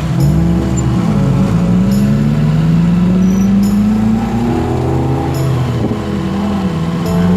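Motorcycle engine pulling away and accelerating, its pitch climbing through the gears, with brief dips at the gear changes about a second and a half in and again near six seconds.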